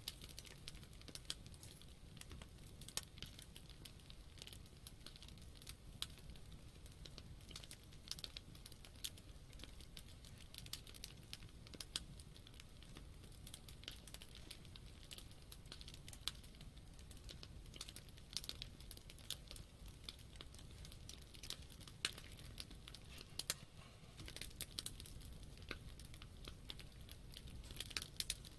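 Wood campfire crackling: a steady run of small sharp pops and snaps, a few of them louder, over a low steady rumble.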